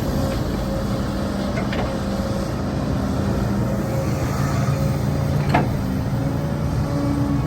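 Heavy diesel engine of earthmoving machinery running steadily, its note shifting slightly near the end, with two short metallic clanks.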